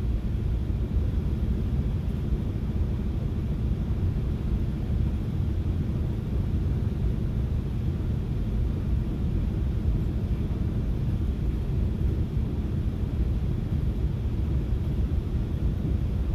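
Steady low rumble of a FrontRunner commuter train running along the track, heard from inside the passenger car, with a faint steady hum under it.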